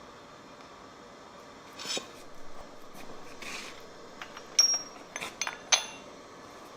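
Light metal-on-metal clinks from steel forging tools or stock: one clink about two seconds in, then four sharp strikes in quick succession near the end, each with a short high ring. A steady low hum runs underneath.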